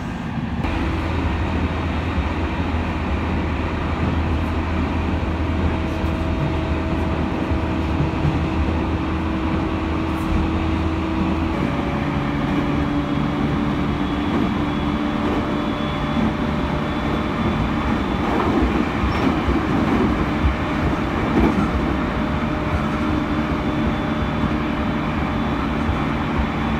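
Running noise of a JR East E231-series electric commuter train heard from inside the car at speed: a steady rumble of wheels on rail with a low hum and a few held tones that shift in pitch about eleven seconds in. The rumble grows a little rougher for a few seconds past the middle.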